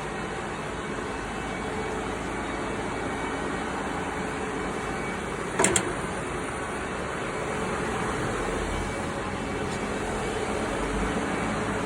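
Steady mechanical hum, with two sharp clicks close together a little past halfway.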